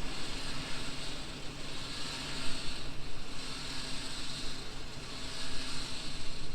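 Four-wheel-drive vehicle engine running steadily, under a hiss that swells and fades every second or two.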